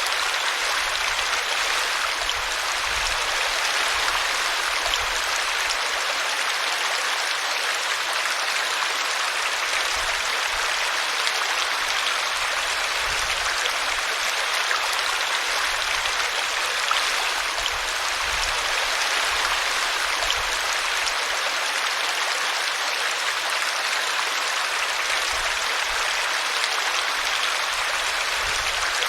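Small brook babbling steadily as it spills over a tree root.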